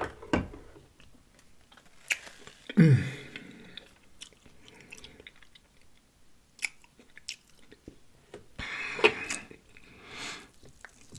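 Close-miked chewing and lip-smacking of a loaded baked potato with shrimp, bacon and Alfredo sauce: a run of short wet clicks and smacks.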